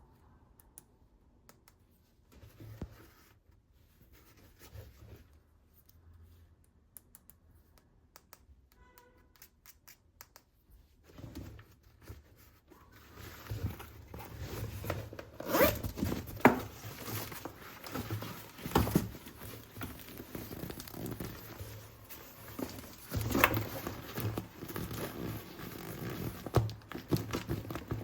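Toy packaging being torn open and handled. Small faint clicks for about the first half, then continuous rasping tearing from about halfway in, with several sharp loud rips.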